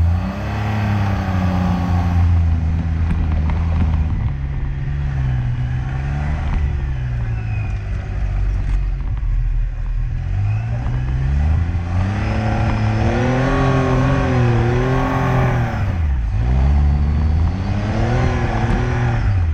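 Classic car engine under load, revving up and down as it changes gear, the pitch rising, holding, dropping sharply and climbing again.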